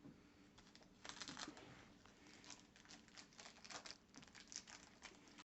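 Faint, irregular light clicks and rustling of small wooden kit pieces being handled and set down.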